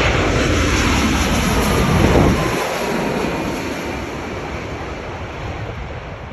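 Jet noise from a Boeing 787-10 airliner going past: a loud rushing with deep rumble that falls off after about two and a half seconds and keeps fading, with a faint whine dropping in pitch.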